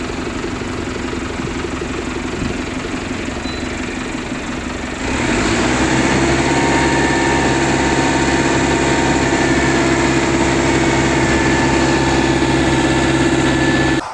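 Heavy machinery engine running steadily, then revving up about five seconds in and holding at a higher, louder speed until it cuts off abruptly at the end.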